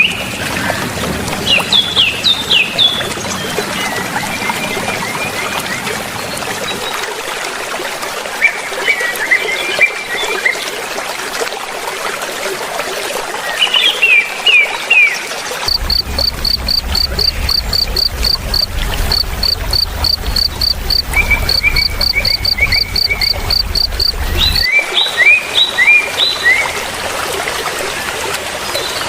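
Small birds chirping in short repeated phrases over a steady background hiss. In the middle, a run of evenly spaced high pips, about five a second, sounds over a low rumble.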